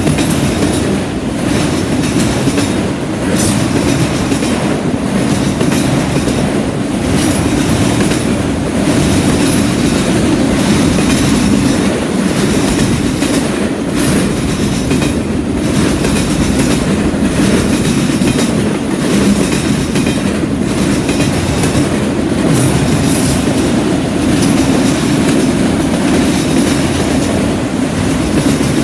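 Freight train of enclosed multilevel autorack cars rolling past close by: a steady, loud rumble of steel wheels on rail with a rhythmic clatter that dips and returns about every two seconds.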